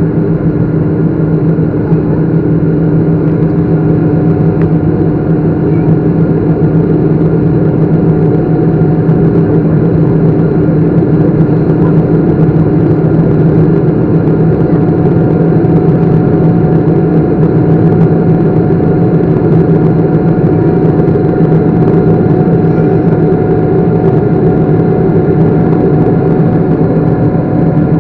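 Boeing 777 jet engines running steadily: a loud, even drone with a low hum.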